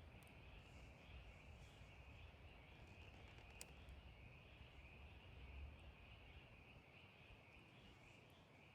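Near silence: faint woodland ambience with a steady high-pitched pulsing chorus in the background and a low rumble, broken by a single tick about three and a half seconds in.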